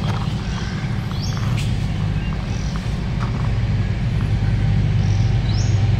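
Steady low rumble with a bird chirping a few times in short rising notes over it.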